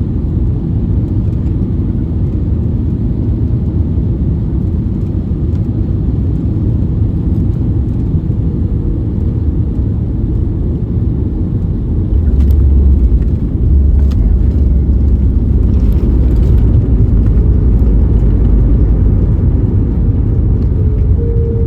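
Steady low rumble inside the cabin of an Airbus A321neo airliner, growing louder about halfway through, with a brief steady hum near the end.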